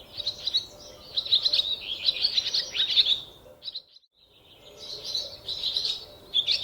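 Birds chirping and singing in quick short phrases, with several calls overlapping. The sound drops out completely for about half a second near the middle.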